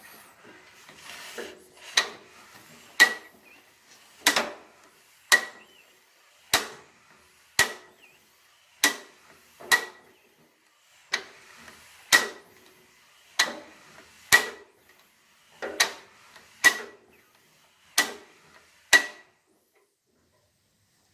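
Freshly unstuck four-cylinder engine of a 1948 Allis Chalmers B tractor being turned over. It gives about sixteen sharp metallic clicks with a short ring, roughly one a second and loosely in pairs, then stops.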